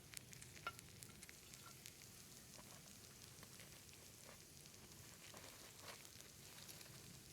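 Arrosticini lamb skewers sizzling over an open wood fire, a soft steady hiss with scattered crackles and pops from the burning wood.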